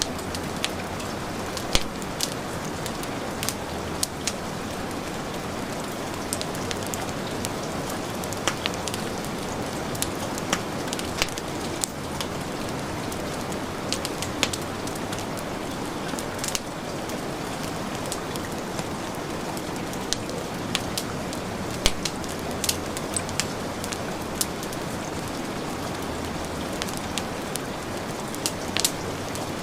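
Heavy rain falling as a steady hiss, with the scattered sharp pops and crackles of a wood fire burning in a fireplace.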